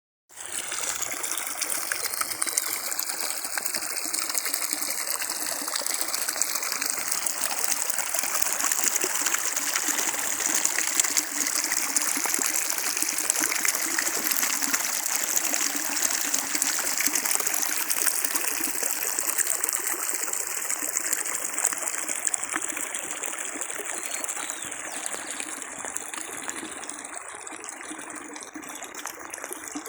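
Steady rush of flowing water, continuous throughout.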